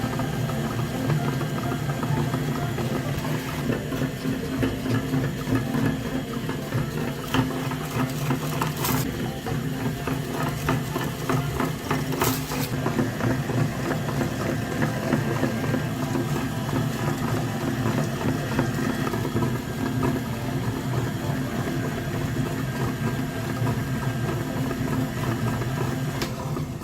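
A motor running steadily with a mechanical rattle, and two sharp clicks about a third of the way in.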